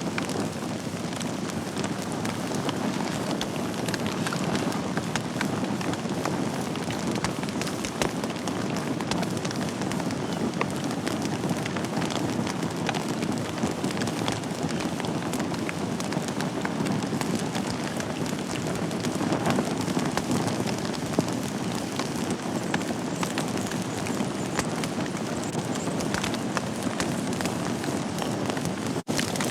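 Wood fire burning in a fireplace: a steady low rush of flames with frequent small crackles and pops. The sound drops out for an instant near the end.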